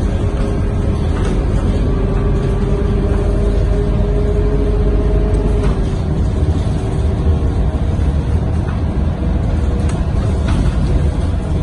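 Scania K230UB single-deck bus heard from inside the cabin while running: a steady low rumble of engine and road, with a faint whine that fades about halfway through.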